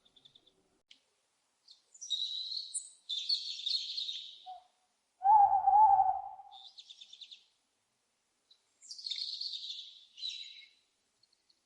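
Owl calls: high, raspy screeches at about two to four seconds in and again near the end, with a single louder, lower wavering hoot of about a second in between.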